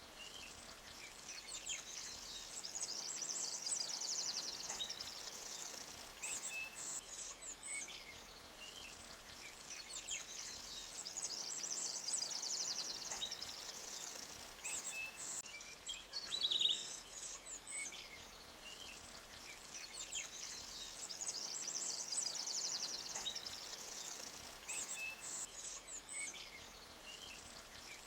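Forest birds singing and chirping over a faint, steady rush of a stream. The twittering song swells and fades, coming back about every nine seconds.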